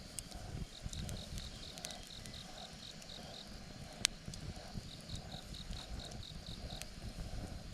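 Wood bonfire crackling with scattered small snaps and one sharp pop about four seconds in, under a low rumble. Alongside it an insect chirps in runs of about four high chirps a second, with a pause in the middle.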